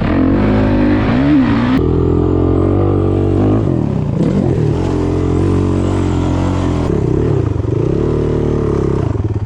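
Single-cylinder off-road engine of a dirt bike or sport quad being ridden, the revs rising and dropping several times as the rider works the throttle and gears, with a sudden change in engine note about two seconds in and a hiss of wind and rushing air over it.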